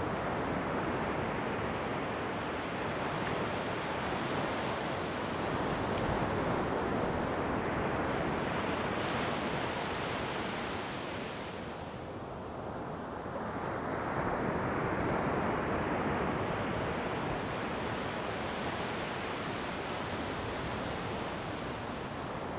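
Ocean surf: waves breaking and washing ashore in a continuous rush that eases off about halfway through, then swells again.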